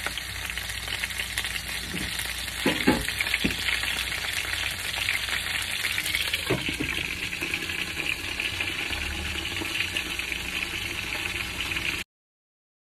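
Chicken pieces frying in hot oil in a pan: a steady, dense crackling sizzle, with a few clinks around three seconds in and again near six and a half seconds. It cuts off suddenly near the end.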